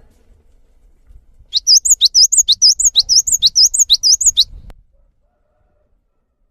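Songbird singing on a bird-training (masteran) track: a quick run of about seven high, repeated looping phrases lasting about three seconds, which then stops abruptly.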